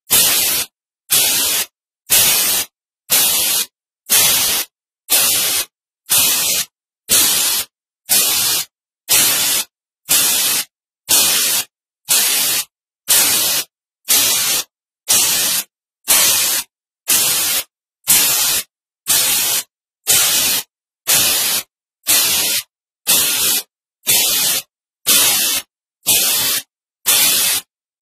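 Loud static-like hiss, strongest in the high end, chopped into even bursts about one a second, each cut off by a short stretch of dead silence.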